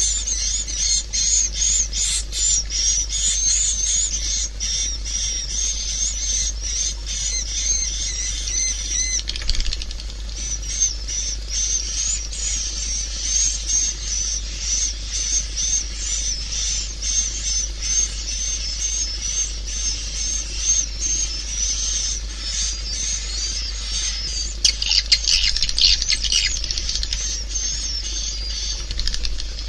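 Swiftlet call track: dense, rapid high twittering of many swiftlets, the chirps packed several to a second, with a steady low hum underneath. This is the kind of calling sound that is played through tweeters to lure swiftlets into a nesting house.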